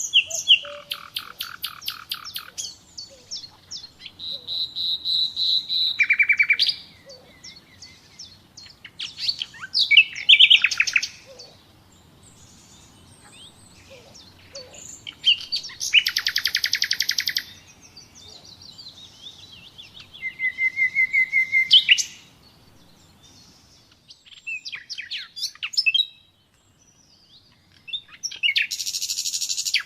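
Common nightingale singing: a series of separate song phrases, each a second or two long, built from fast repeated notes, rattling trills and a few held whistled notes, with pauses of a second or more between phrases.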